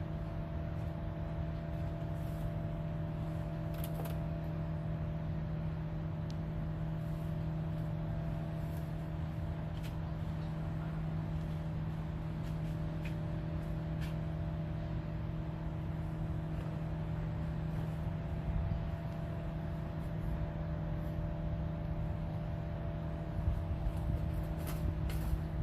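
An engine running steadily at a constant speed, a steady hum over a low rumble.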